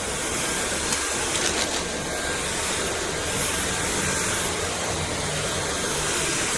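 Dyson V8 Animal cordless stick vacuum running at full speed: a steady high motor whine over the rush of air through the cleaner.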